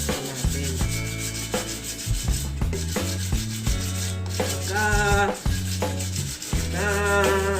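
Sandpaper rubbing on an exhaust manifold, sanding the metal clean. A pitched sound that bends up and down comes in briefly about five seconds in and again near the end.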